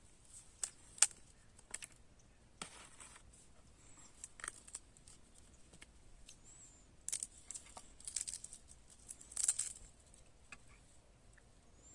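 Irregular sharp clicks, taps and short rustling scrapes, the loudest a single click about a second in, with a busier run of them a little past halfway.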